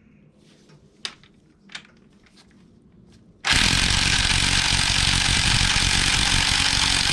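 A few light clicks, then about three and a half seconds in an impact wrench starts hammering continuously on the LQ4 V8's 24 mm harmonic balancer bolt. The bolt is stuck and does not break loose.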